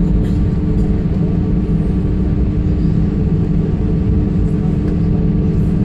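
Airbus A318 jetliner's engines running, a steady, even drone and rumble with a few held tones.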